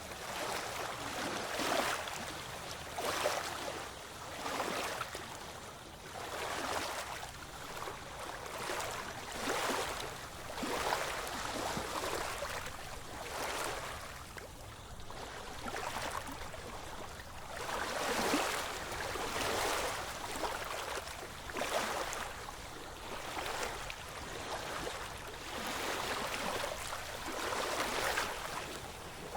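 Small waves lapping and splashing, a wash of water noise that swells and fades about every second and a half.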